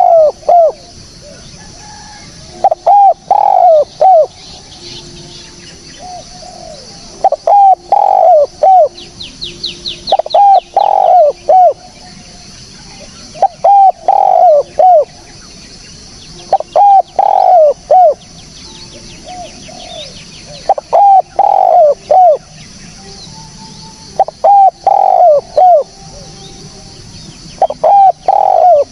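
Spotted dove (tekukur) cooing its repeated phrase of several hooked notes, about once every three to four seconds, a call used as a lure for trapping these doves. Faint rapid chirps of a small bird come in around a third of the way through.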